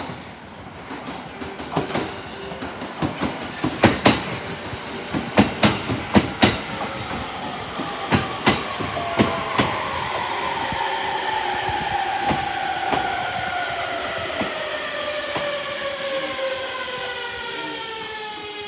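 Electric train running into the station: wheels clack over the rail joints in quick pairs, then the traction motors' whine falls steadily in pitch as the train brakes to a stop.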